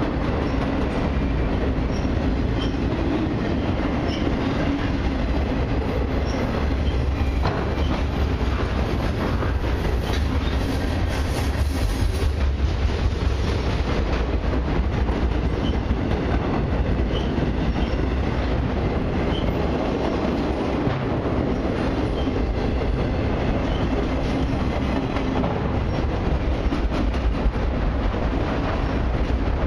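A mixed freight train of empty intermodal flatcars and autorack cars rolling past at close range: a steady rumble and clatter of steel wheels on the rails.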